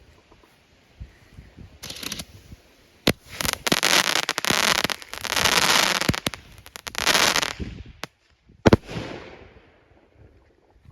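King Pin firework mines going off one after another in loud crackling, hissing bursts with sharp cracks. They are followed about 8.7 s in by a single loud bang from a double lantern salute, the loudest report, which then trails off.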